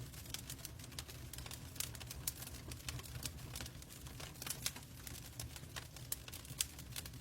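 Wood fire crackling in a fireplace: irregular sharp pops and snaps over a low steady rumble, mixed with rain.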